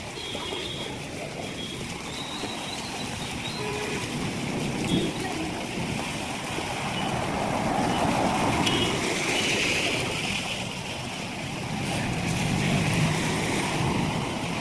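Heavy rain and running water, a steady rush that swells louder twice, once near the middle and again near the end.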